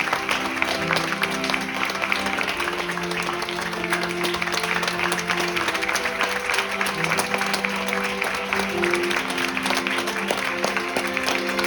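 Theatre audience applauding steadily over recorded curtain-call music with long held notes.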